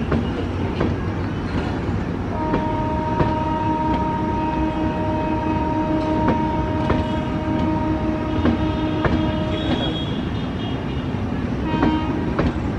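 Passenger train coaches rolling past with a steady rumble and a regular clatter of wheels over rail joints. A long, steady train horn blast sounds over it from about two seconds in and stops about three seconds before the end, with a short toot near the end.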